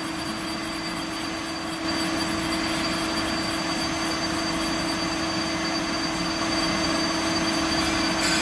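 CNC drilling machine running with a steady hum and a high whine, growing louder about two seconds in and again near the end.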